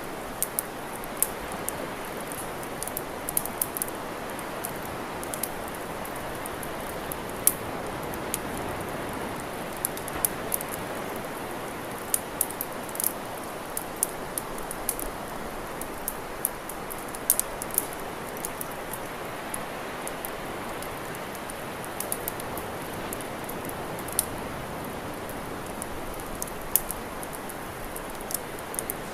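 Campfire crackling: irregular sharp pops and snaps, a few to several a second, some much louder than others, over a steady rushing hiss.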